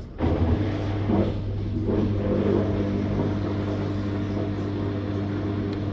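Living & Co 5.5 kg top-loader washing machine's motor kicks in just after the start and hums steadily, pulsing the wash during the agitation cycle.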